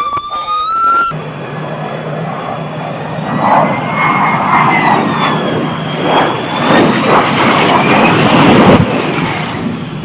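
A siren wails briefly, then gives way to an aircraft's jet engines running, with a steady hum and a whine that slowly rises and falls in pitch. The engine sound grows louder and then cuts off abruptly near the end.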